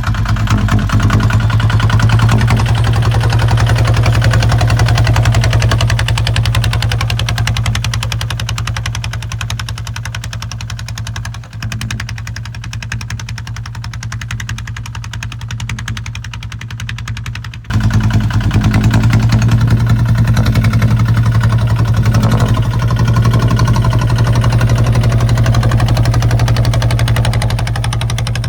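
Single-cylinder diesel engine of a Kubota ZT 155 tractor running steadily under plowing, with a fast, even beat. It drops quieter about a third of the way through, then comes back up suddenly at full loudness about two-thirds of the way in.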